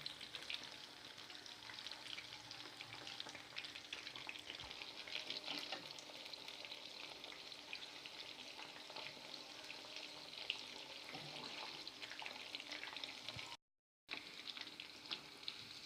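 Besan-coated chicken pakoras frying in hot oil: a steady, faint sizzle with fine crackling. The sound cuts out for about half a second near the end.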